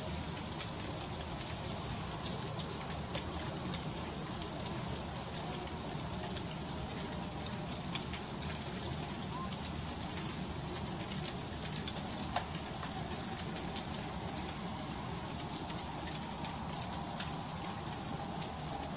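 Freezing rain falling steadily, with many tiny ticks of ice striking surfaces over a constant hiss and a low steady rumble.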